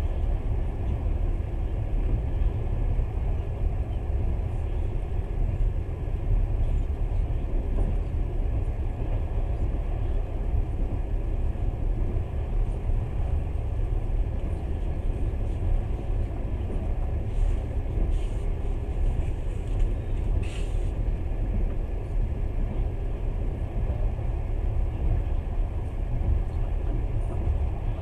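Moving passenger train running at speed: a steady low rumble of the wheels and running gear on the track.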